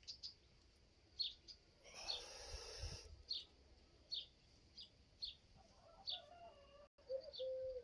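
Faint small birds chirping: short, high chirps that drop in pitch, one every second or so. About two seconds in there is a brief burst of rustling noise, and a lower, wavering call comes in near the end.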